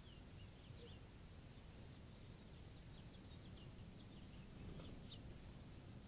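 Faint high chirps of small birds, a quick scatter of short notes, over a steady low background rumble.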